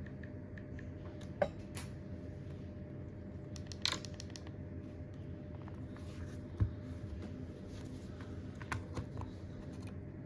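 A few scattered light clicks and taps from small repair tools handling phone parts, over a steady low hum.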